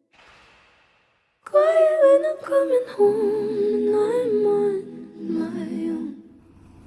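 A solo voice sings a slow melody without words. It starts about one and a half seconds in and trails off near the end.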